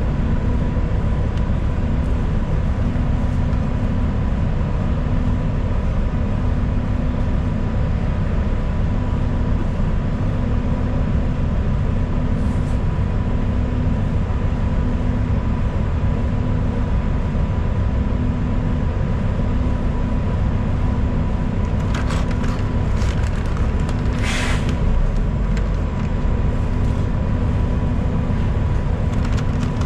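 A transit bus in motion heard from inside, with a steady low drone from its engine and tyres and a faint high whine. About 22 seconds in come a few short rattles, and at about 24 seconds a brief hiss of air, typical of the bus's air brakes.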